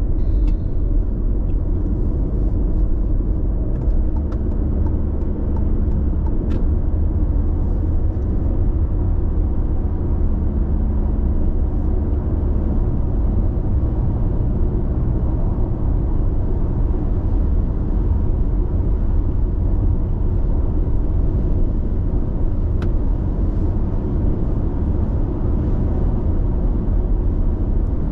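Steady low road rumble and tyre noise inside a car's cabin cruising at constant speed on an expressway.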